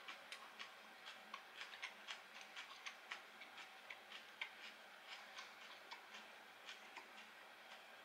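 Faint, irregular crisp crackles, a few a second, of chewing crunchy fried breaded food.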